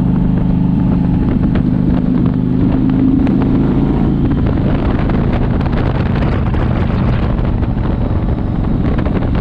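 Motorcycle engine running at a steady speed on the road, with wind rushing over the microphone.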